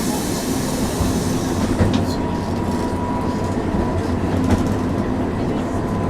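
Hankai Tramway tram running between stops, heard from inside the car: a steady hum from the traction motors and gears, with a few clicks of the wheels over rail joints. A high hiss fades out about two seconds in.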